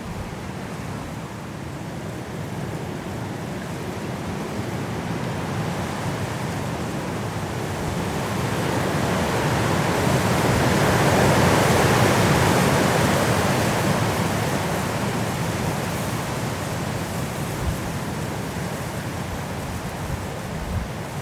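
High winds blowing through trees in a snowstorm: a steady rush that swells into a strong gust about halfway through and then eases off.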